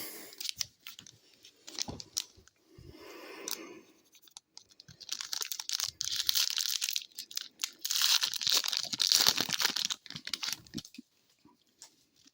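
Hockey card pack wrapper being torn open and crinkled: scattered crackles, then two longer stretches of loud rustling about five and eight seconds in.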